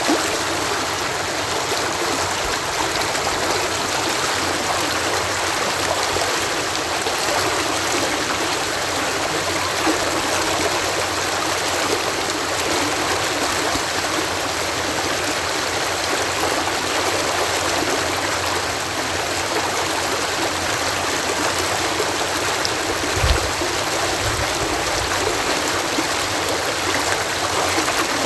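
Water cascading steadily through a canal lock, a continuous even rushing, with one brief low thump late on.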